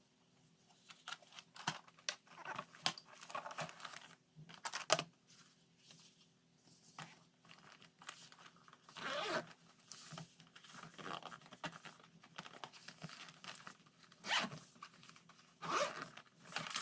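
Hands packing food into lunchbox containers: irregular clicks, rustling and scraping, with a few louder taps, about 5 s and 14 s in, over a faint steady hum.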